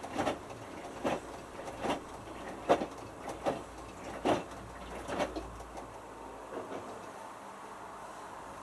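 Hotpoint Futura HF8B593 front-loading washing machine drum turning slowly in the early wash, the small load swishing over with each turn about every three quarters of a second. The swishes fade out after about five seconds as the drum comes to rest, leaving a low steady hum.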